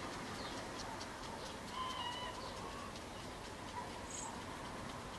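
Faint outdoor ambience: a steady low background noise, with a short bird call about two seconds in and scattered faint high chirps and ticks.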